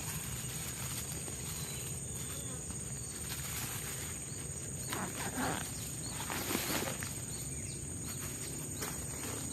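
Forest insects keep up a steady, high-pitched drone over a constant background hiss. A few short rustles or knocks come about five to seven seconds in.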